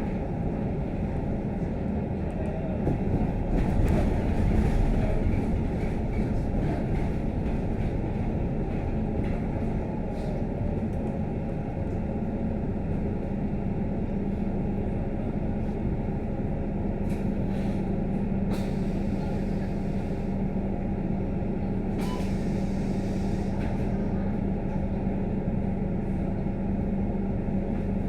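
Cabin noise inside a moving Scania K310UD double-decker bus: its 310-bhp engine and road noise in a steady drone, swelling briefly a few seconds in, then settling into an even hum. A few light clicks and rattles come through in the second half.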